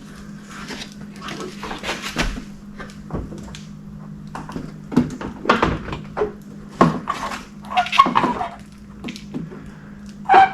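Irregular plastic clicks, knocks and rattles as a car headlight assembly and its wiring connector are handled and fitted, over a steady low hum. A short squeak comes near the end.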